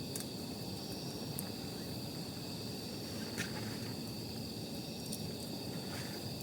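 Wood campfire burning with a low steady rush and a few sharp crackles and pops, the loudest about three and a half seconds in. Behind it, a steady high-pitched insect trill, crickets or katydids, runs on unbroken.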